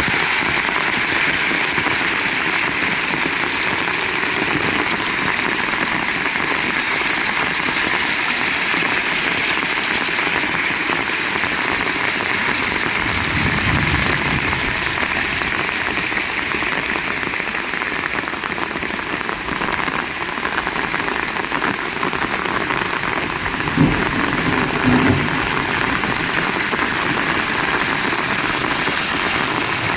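Heavy rain pouring steadily, a dense hiss of drops. A short low rumble comes about halfway through, and two brief louder low sounds a little after three-quarters of the way through.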